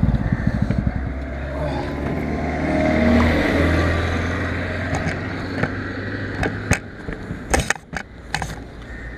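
Single-cylinder 200 cc motorcycle engine running under the rider with wind noise over it, its low drone easing off about four seconds in as the bike slows to a stop. A few sharp knocks come near the end.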